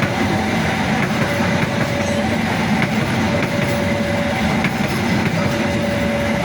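Indonesian passenger train running on the rails: a steady rumble with continuous wheel clatter. Over it, a faint two-note tone alternates about once a second.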